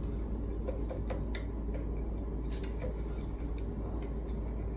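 Irregular small clicks and taps from handling the model boat's small parts as the canopy ropes are undone from their fittings, over a steady low hum.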